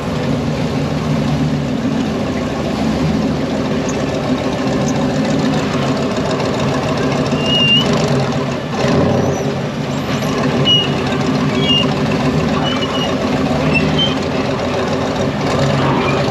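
Off-road 4x4's engine running steadily at low revs, with a few short high squeaks or chirps from about seven seconds in.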